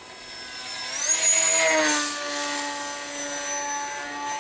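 Radio-controlled model airplane in flight: its electric motor and propeller whine steadily. The pitch rises about a second in and drops again at about two seconds, loudest as the plane passes close.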